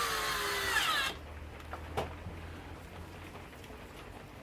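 Handheld power drill running into wood, its motor pitch sinking as it loads up, then stopping abruptly about a second in; a single sharp click follows near two seconds.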